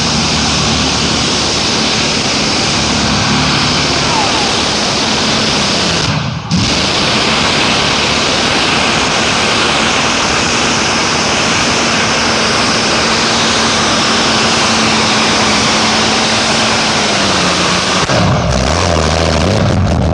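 Pulling tractor's engine running hard at high revs under load, loud and steady, with a brief gap about six seconds in. Near the end it drops back to a lower, slower idling note.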